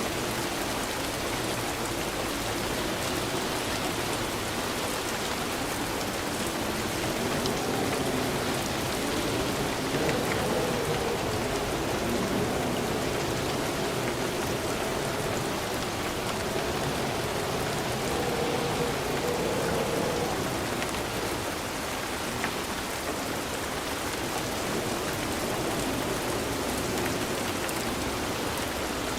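Steady heavy rain falling on a surface, a constant hiss with scattered drop ticks.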